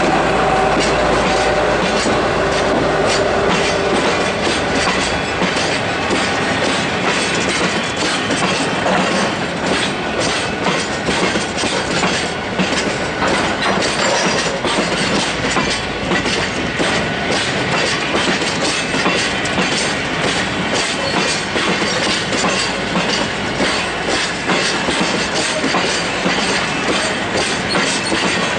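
Cement tank wagons rolling slowly past, their wheels clacking over the rail joints in a steady run of clicks.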